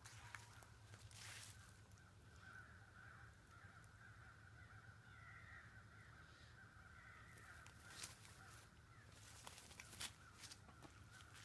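Faint bird calls, a thin wavering cry that goes on without a break, with a few soft taps and knocks.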